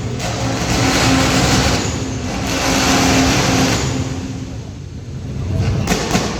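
Loud engine revving: two hard revs of a couple of seconds each, then the engine eases back toward idle about four seconds in before picking up again near the end.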